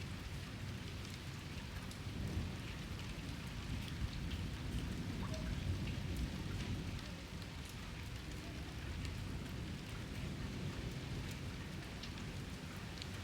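Steady rain falling, pattering with small drop ticks, with a low rumble of thunder that swells and fades between about two and seven seconds in.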